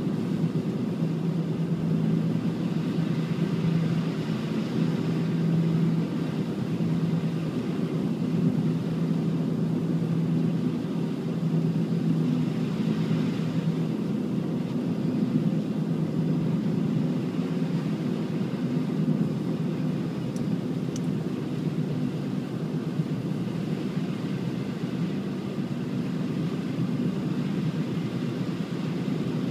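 A steady engine hum with a low, even drone throughout.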